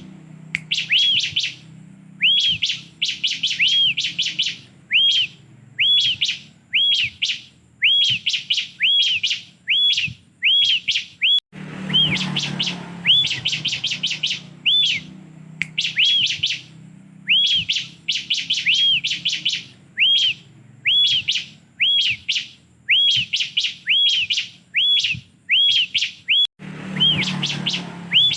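Bar-winged prinia (ciblek) singing: short arching chirps repeated in quick groups of two to four, about once a second, over a faint low background hum.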